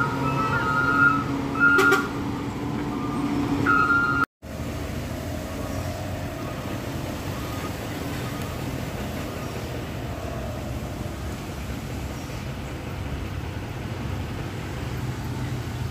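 Heavy road vehicle running, with an electronic warning beep repeating about every half second and a sharp click about two seconds in. After a brief cut just past four seconds, steady engine and road noise.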